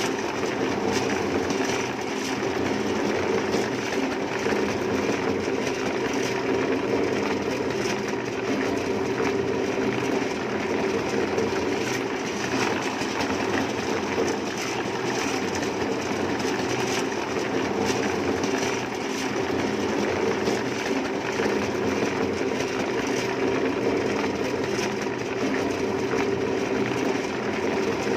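A motor-driven machine running steadily, a constant hum with a fast rattling clatter and slight swells every few seconds.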